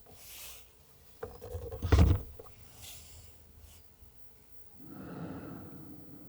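Handling noises: brief rustling, and a heavy low thump about two seconds in, followed by more rustling near the end.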